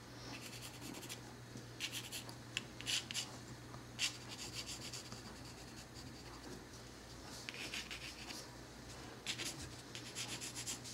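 Pencil sketching on paper: light, scratchy strokes coming in short clusters. A faint steady low hum runs underneath.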